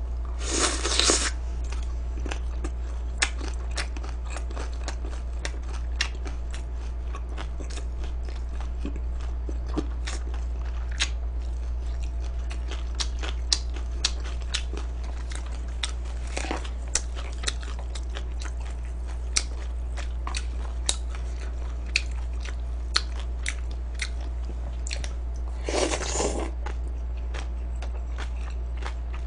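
Close-up eating sounds: chewing and biting with scattered sharp crunches and mouth clicks over a steady low hum. Three brief louder noisy bursts come about a second in, near the middle and near the end.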